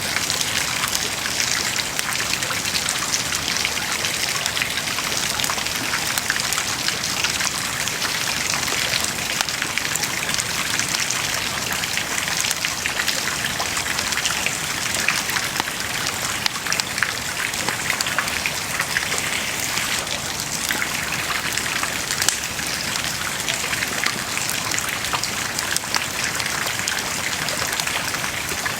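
Wood bonfire burning and crackling steadily, with a dense run of small snaps and pops over a constant hiss of the flames.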